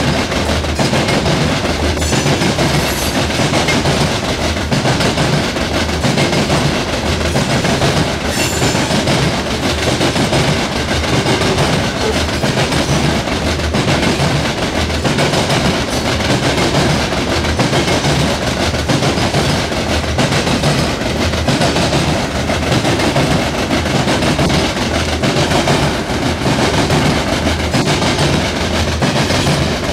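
Coal hopper cars of a CSX freight train rolling past close by: a steady rumble of steel wheels on rail with rhythmic clicking as the wheels cross rail joints.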